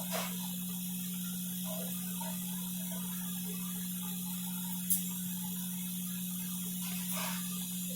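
Steady low electrical hum with a constant hiss, broken by a single sharp click about five seconds in.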